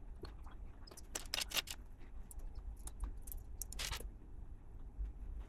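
LEGO plastic bricks being handled and pressed together: scattered light clicks and taps, with a quick run of them about a second and a half in and a louder click near four seconds.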